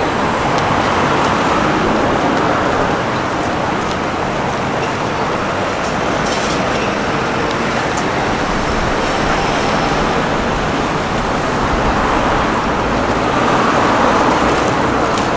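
City street traffic: a steady wash of road-vehicle noise, swelling louder near the end.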